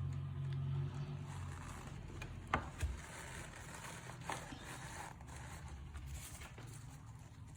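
Light handling noise from hot-gluing a coir birdhouse cone to its floor: two sharp clicks about two and a half seconds in, and soft scraping and rustling, over a low hum that fades after the first second or so.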